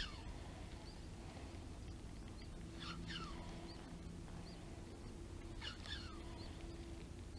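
A bird calling, the same falling call repeated about every three seconds, each call sliding down steeply from high to lower pitch.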